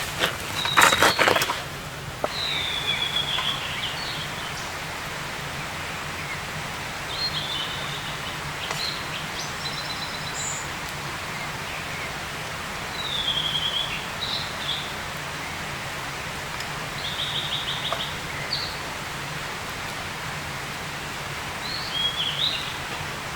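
Forest birds calling: short falling chirped phrases and quick trills every few seconds, over a steady outdoor hiss. A cluster of loud knocks and clatter comes about a second in.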